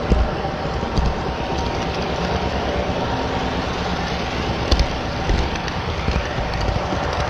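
HO scale model train running on the layout's track: a steady rolling rush with a few sharp clicks, one near the start, one about a second in, two close together past the middle and one more soon after.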